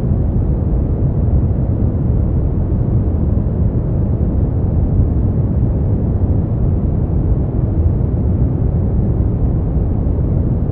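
Brown noise: a steady, deep rushing hiss, strongest in the bass and dark in the treble, with no change in level.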